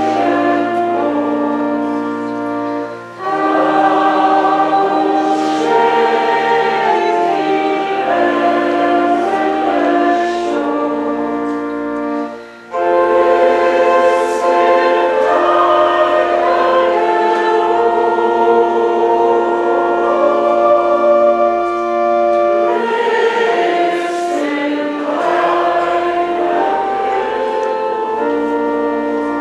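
Church choir singing a hymn with organ accompaniment, in long held phrases with short breaths about 3 and 12 seconds in.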